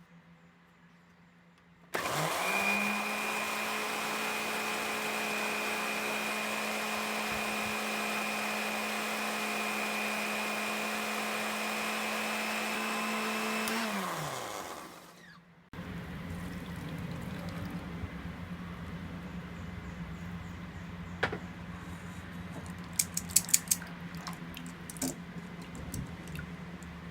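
Electric kitchen blender motor spinning up, running steadily for about twelve seconds, then winding down; after a short pause a quieter steady hum follows, with a few sharp clicks near the end.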